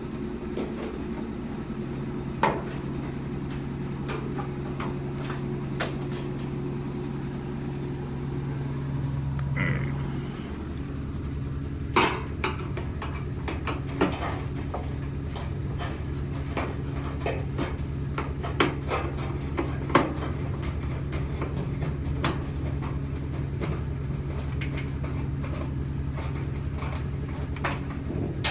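Scattered metal clanks and knocks as the sheet-metal front panel and parts of a dryer cabinet are handled and removed, over a steady low hum.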